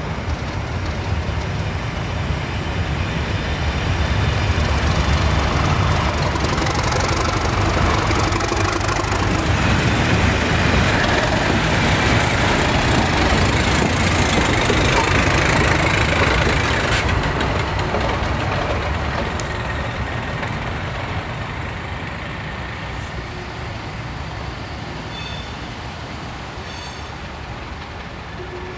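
A loco-hauled test train passing: the coaches roll by, then a Colas Rail Class 37 diesel locomotive goes past about halfway through, its engine adding a low rumble to the noise. The sound is loudest as the locomotive passes and then fades steadily as the train draws away.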